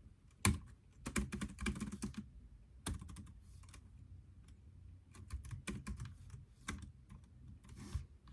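Typing on a computer keyboard: irregular runs of keystrokes with short pauses and single taps between them, one run about a second in and another about five seconds in.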